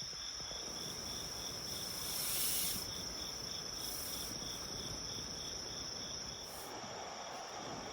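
Night insects calling: a steady high trill and a lower chirp pulsing about four times a second, over a soft even hiss, with a brief rush of noise about two seconds in.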